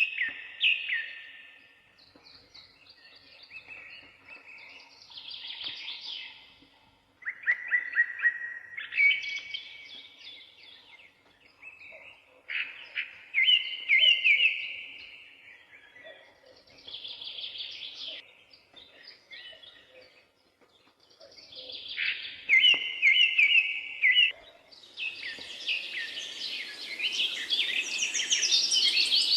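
Forest birds singing: separate whistled and trilled phrases every few seconds. Near the end several birds overlap in a denser, higher chorus.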